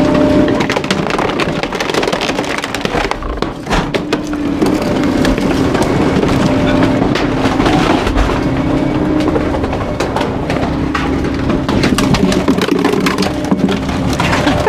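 Garbage truck's packer compacting bulky waste: the engine and hydraulics run under load with a steady drone while wood and other debris crack and splinter in the hopper.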